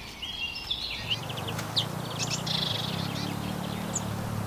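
Birds calling: short chirps and rapid stuttering trills, repeated a few times, over a low steady rumble that sets in about a second in.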